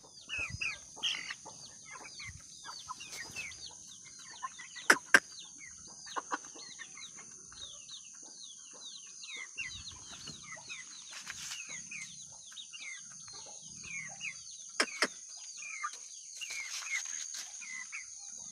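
Parrot-beak Aseel chicks peeping continuously, a chorus of many short, falling cheeps. A few sharp knocks cut through, the loudest about five seconds in and again near fifteen seconds.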